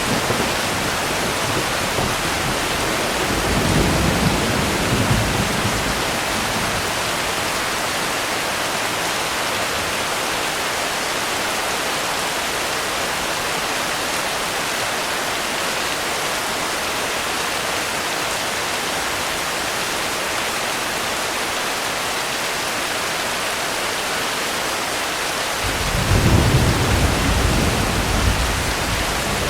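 Steady rain falling, an even hiss, with two low rolls of thunder: a short one about three seconds in and a longer, louder one near the end.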